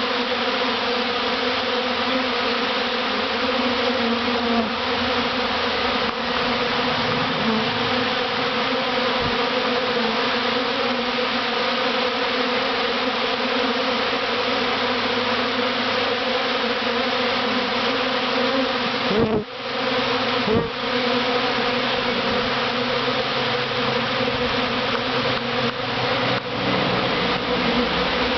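A large honeybee swarm buzzing right at the microphone: a dense, steady hum of many bees at once. Twice, about two-thirds of the way through, there is a brief bump and dropout, as of bees knocking against the microphone.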